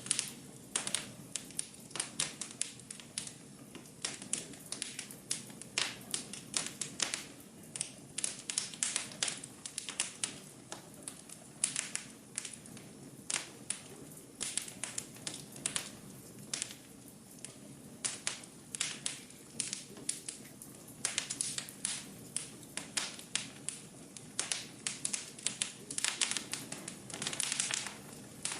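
Wood fire burning in a fireplace, crackling with many irregular sharp pops and snaps over a low steady hiss.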